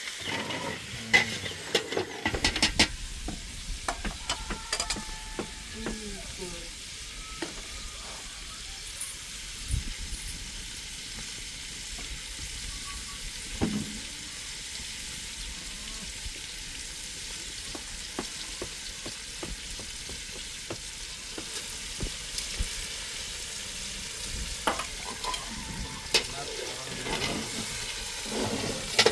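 Food sizzling in a pan, a steady hiss with scattered clicks and scrapes of a utensil being stirred, busiest in the first few seconds and again near the end.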